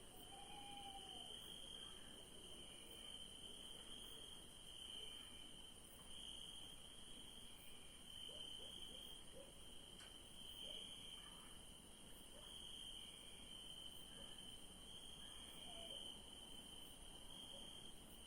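Faint night chorus of crickets: a steady high insect hum with a lower chirring band that swells and fades about every two seconds.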